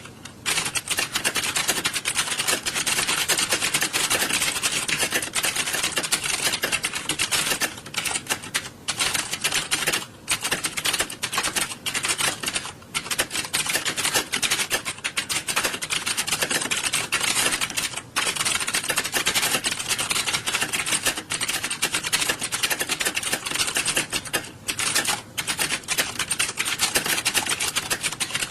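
Many computer keyboards clattering at once, as in a typing-test hall: a dense, unbroken stream of fast key clicks with a few brief lulls.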